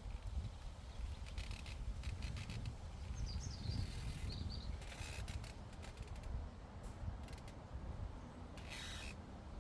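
Wind rumbling on the microphone, with several short bursts of crisp tearing clicks from a llama cropping grass, and a brief bird chirp a little before the middle.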